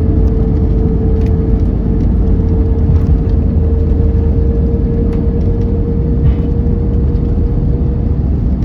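Cabin noise inside an Airbus A321neoLR on the ground after landing: a steady low rumble of engines and airframe, with a steady hum that stops shortly before the end.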